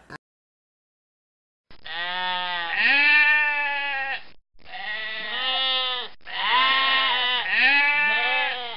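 A white goat bleating: three long, wavering bleats in quick succession, the first starting about two seconds in.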